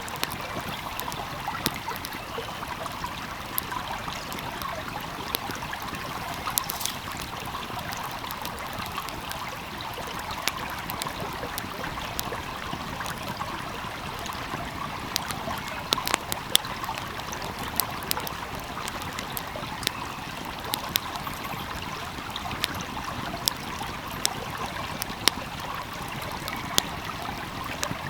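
A stream flowing steadily, with a wood fire crackling over it in scattered sharp pops.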